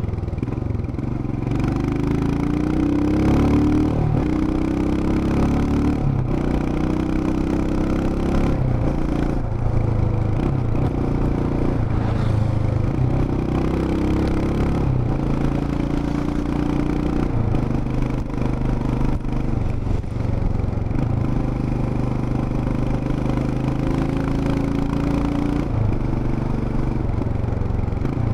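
Royal Enfield Himalayan's 411 cc single-cylinder engine and exhaust running while riding, the engine note rising and falling with the throttle and dropping off briefly several times.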